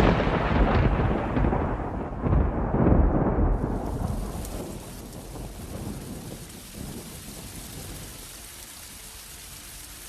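Thunder from a summer thunderstorm rumbling loudly, rolling with several swells in the first three seconds, then fading away over the next few seconds. Steady rain hisses underneath and is left on its own at the end.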